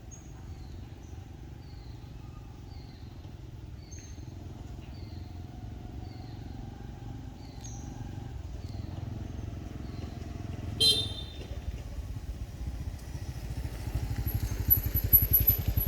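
A vehicle engine rumbling, growing louder and beating with a fast, even pulse over the last few seconds. A short high chirp repeats about once a second through the first half, and a single sharp clack comes about eleven seconds in.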